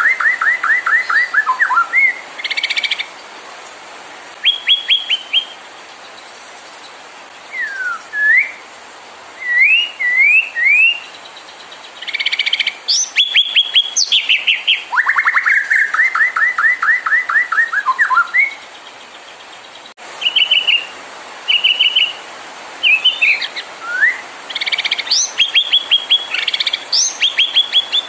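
White-rumped shama singing: loud phrases of rapid repeated notes, quick rising whistles and sharp high chips, broken by short pauses, over a steady faint hiss.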